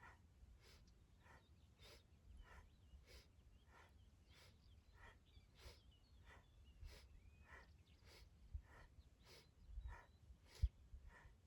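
Faint bird chirping, short calls repeated about every half second over a low rumble, with a soft thump near the end.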